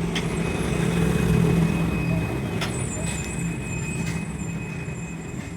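Heavy truck engine running steadily, swelling briefly about a second and a half in and then easing off, with a couple of sharp clicks.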